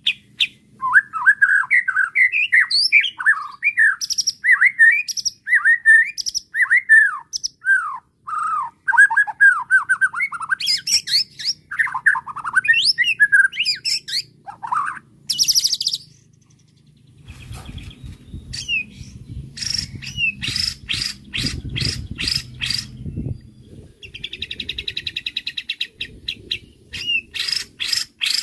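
White-rumped shama singing a long, varied song: quick whistled phrases for the first ten seconds or so, then louder, higher notes, then a run of harsh clicking notes over a low rumble, and a buzzing trill near the end.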